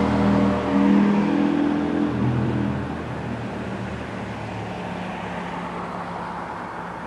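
Motorcycle engine revving as it accelerates away, its pitch stepping up and down in the first few seconds, then fading into a distant drone.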